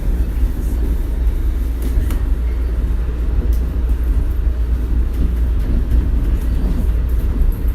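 Shonan Monorail car running between stations, heard from inside the car: a steady low rumble of its rubber tyres running along the suspended track beam, with a few faint clicks.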